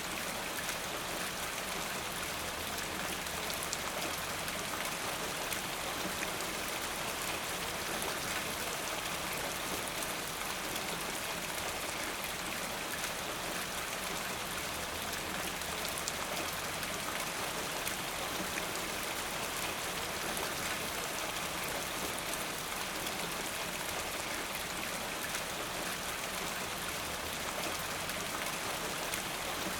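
Steady rain falling, a dense even hiss with fine drop patter.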